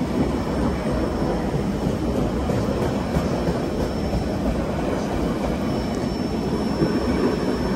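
White Pass & Yukon Route narrow-gauge train running on the rails, a steady rumble with no distinct clicks or breaks.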